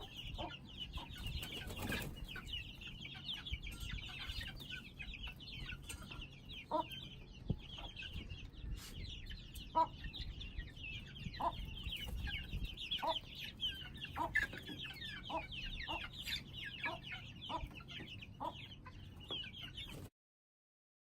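A flock of young Aseel chickens, about 50 days old, peeping and chirping constantly, with lower single calls about once a second. It all stops abruptly near the end.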